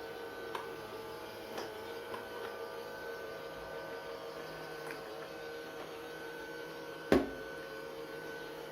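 Perfin PFRBVC02 robot vacuum running, its small motor giving a steady whine with a few light ticks, and one sharp knock about seven seconds in.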